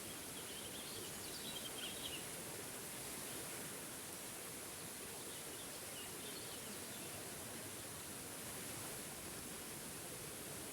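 Small forest waterfall rushing steadily, with birds chirping faintly, in short high bursts about a second in and again around the middle.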